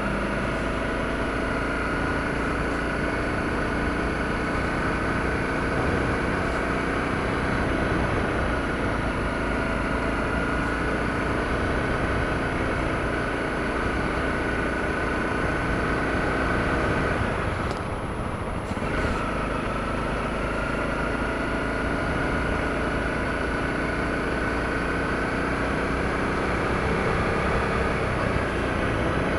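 Honda CRF250L's single-cylinder four-stroke engine running steadily at low road speed. About two-thirds of the way through the engine note briefly drops away, then climbs back up as the throttle comes on again.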